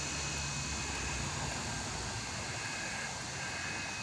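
Steady outdoor background noise: a low, even rumble with faint steady high tones above it.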